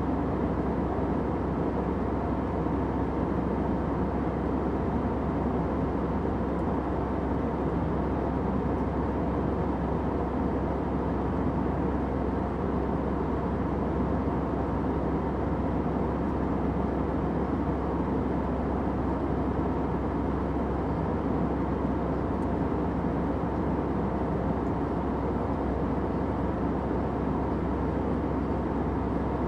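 Steady airliner cabin drone: the even, low rumble of the engines and airflow heard inside a passenger jet in cruise, without change or breaks.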